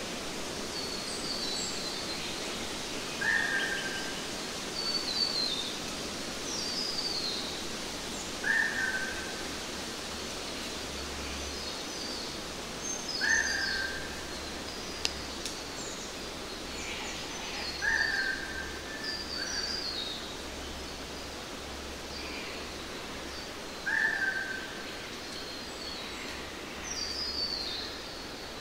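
Birds calling over a steady hiss of background noise: a short clear call repeats about every five seconds, with quick falling chirps higher up in between.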